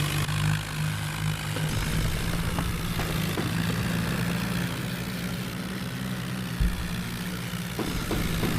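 Tractor engine running steadily, with a brief low thump about two-thirds of the way through.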